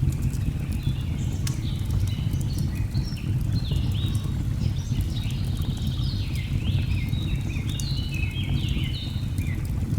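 Birds singing in a run of short falling and rising whistled phrases over a steady low rush of falling water, with sharp crackles from a log fire.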